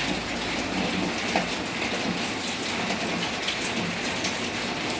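Steady rain falling, with individual drops ticking on a surface close by.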